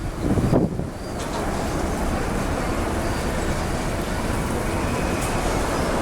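Wind buffeting the microphone in gusts, then from about a second in the steady roar of a jet airliner's engines, with a faint high whine over it.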